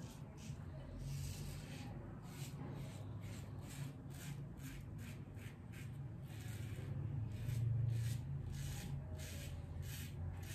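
Double-edge safety razor scraping through lathered stubble in short, quick strokes, about two to three a second, on an against-the-grain pass.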